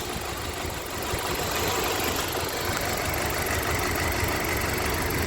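2015 Jeep Patriot 2.4L four-cylinder engine idling steadily, heard at the open intake air box with the baffle removed. A real faint pop comes through the intake, which the mechanic takes for compression escaping past a faulty cylinder 3 intake valve: a cracked seat or valve, or a bad spring, causing a light misfire at idle.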